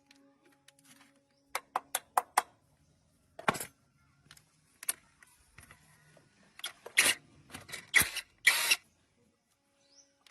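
Workshop handling noises: four quick sharp clicks about a second and a half in, then scattered louder knocks and short scrapes, as of tools and gearbox parts being handled.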